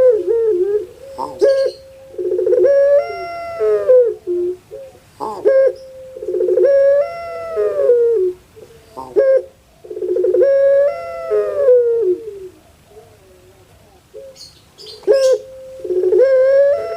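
Puter pelung dove (Streptopelia risoria) cooing: about four long rolling coos, one every four seconds or so, each rising and then falling in pitch, with short clicks between the calls.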